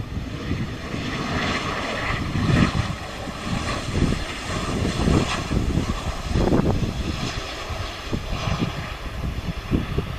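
Jet airliner engine noise, a steady rushing sound, with irregular wind buffeting on the microphone.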